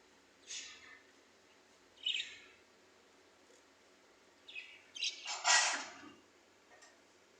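Parrot calling in short, harsh squawks: single calls about a second and a half apart, then a louder cluster of calls around five seconds in.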